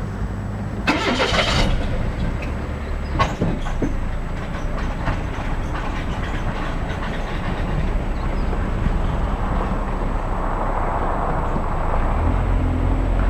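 Car driving on a rough mountain road: steady engine and road rumble, with a short burst of noise about a second in and a few sharp knocks a couple of seconds later. The rumble grows a little louder near the end.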